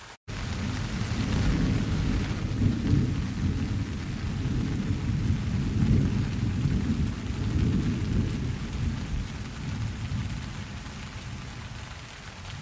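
Thunder rolling over steady rain. After a split-second break near the start, a deep rumble comes in abruptly, swells and surges over several seconds, then slowly dies away toward the end.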